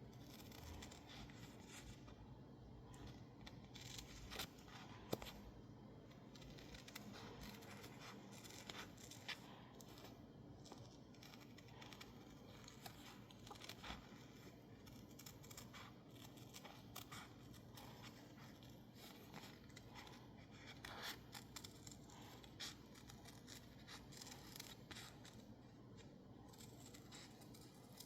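Scissors cutting sticker label paper: faint, irregular snips and scratchy paper strokes.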